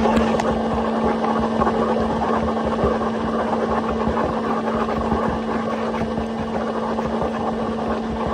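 Marble quarry chain saw running, a steady motor hum with gritty crackling from the chain cutting stone dry.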